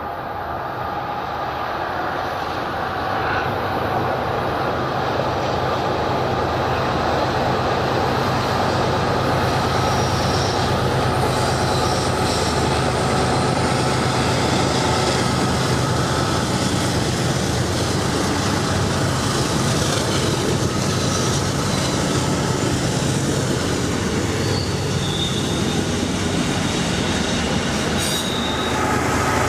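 BNSF freight train rolling past on the main line, its diesel locomotives and cars making a steady rumble that grows louder over the first few seconds. Steel wheels give brief high squeals a third of the way in and again near the end.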